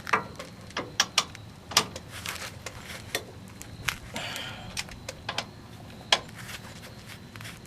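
Socket ratchet on the wheel hub's 15 mm mounting bolts: irregular clicks and metal clanks, with a short run of rapid ratchet clicking about four seconds in, as the bolts are checked for tightness.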